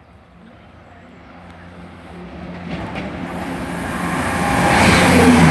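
CrossCountry Class 170 Turbostar diesel multiple unit approaching and running through the station, growing steadily louder. A low engine hum is joined by a rising rush of wheels on rail, which is loudest near the end.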